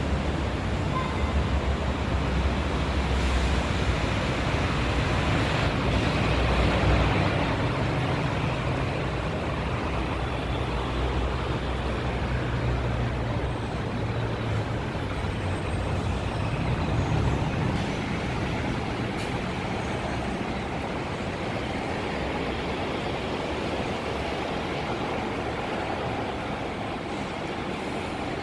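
CPTM electric commuter train (EMU) running at the station: a steady rumble and rail noise with a low hum, easing slightly over the last part.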